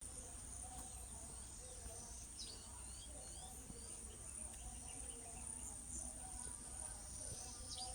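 Outdoor ambience of insects trilling steadily at a high pitch, with a few short bird chirps about two and a half to three and a half seconds in and again near the end, over a low rumble.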